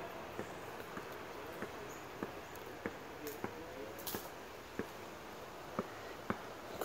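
Footsteps on a trail at a steady walking pace, a short tap with each step, a little under two a second, over a faint outdoor background.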